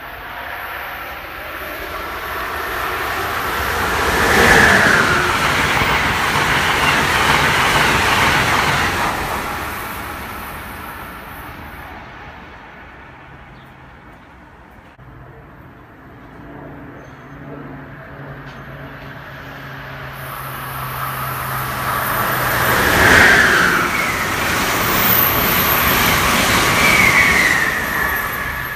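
Two trains passing through a station one after the other, each growing louder as it nears and fading as it goes, the first peaking about four to nine seconds in and the second near the end, with a short falling whine at the height of each pass.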